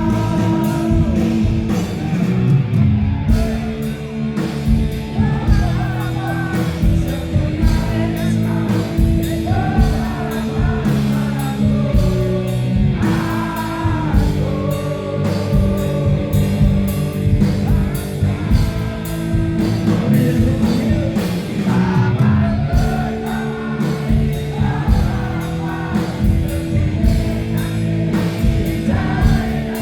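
Rock band playing live: a singer over electric guitars, bass and drums, loud and continuous.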